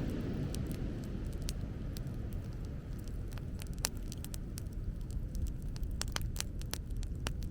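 Wood bonfire crackling, with irregular sharp pops coming thicker near the end, over a steady low rumble.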